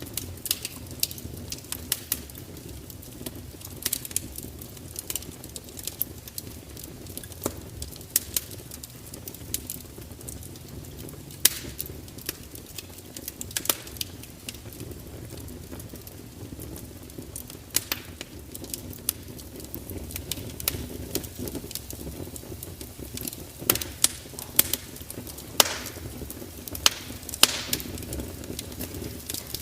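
Wood fire burning with a steady low rush and irregular sharp crackles and pops, a few louder snaps standing out.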